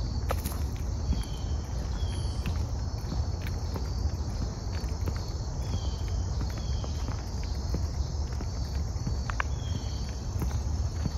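Insects calling in a steady, evenly pulsing high chorus, with short gliding calls now and then. Under it runs a low rumble, with the odd click of footsteps.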